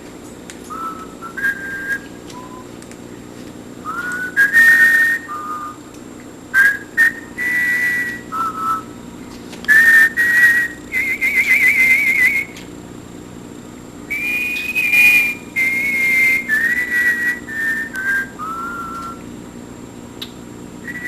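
A person whistling a simple tune in clear held notes that step up and down, with a few short, harsh, noisy bursts in between.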